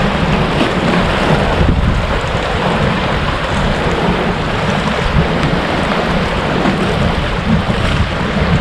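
Steady wind on the microphone, with the sea washing against the rocks.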